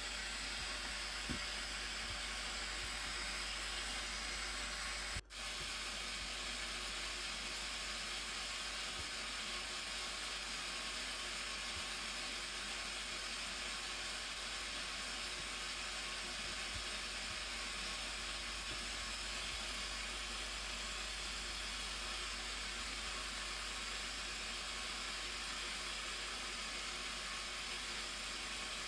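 Steady rushing noise of the Blue Nile Falls' water, even throughout, with a sudden momentary dropout about five seconds in.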